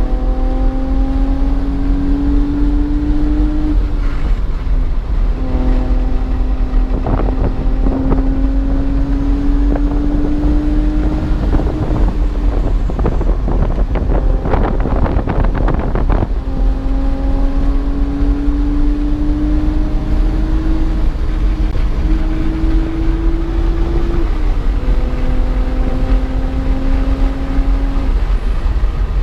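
BMW's engine pulling hard in long climbs on a track lap, the note rising slowly and dropping away at each lift or shift, about four times, with a rough, rattly stretch around the middle. Heavy low wind rumble on the microphone underneath.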